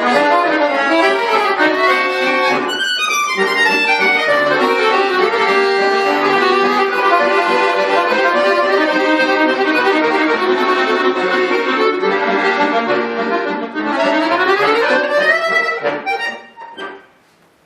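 Bayan (Russian chromatic button accordion) playing a fast solo piece. It has a quick downward run about three seconds in and a rising run near the end. Then a few short final chords close the piece and the sound dies away.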